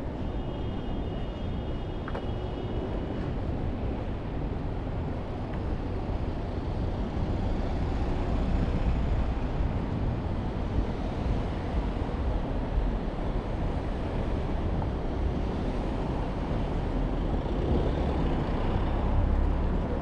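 Steady rumble of road traffic passing on a city street, a little louder from about a third of the way in, with a faint high whine for a few seconds near the start.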